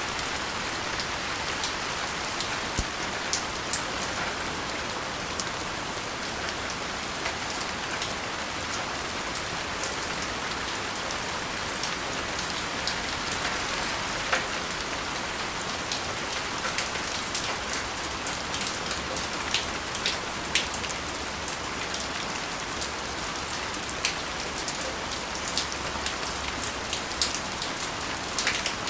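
Steady rain, with many individual drops ticking sharply on hard surfaces against an even hiss.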